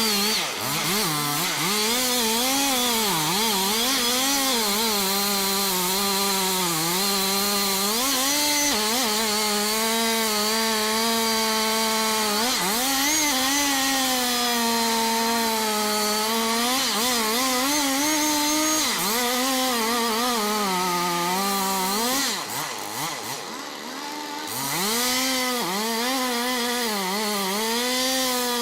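Two-stroke chainsaw running at high revs and cutting wood, its pitch sagging and recovering again and again as the chain bites under load. About three-quarters of the way through, the throttle eases off and the engine drops lower for a couple of seconds, then revs back up.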